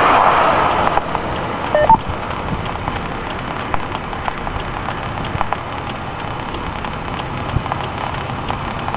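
Light rain ticking in scattered drops over a steady hiss. A louder rush of noise fades out in the first second.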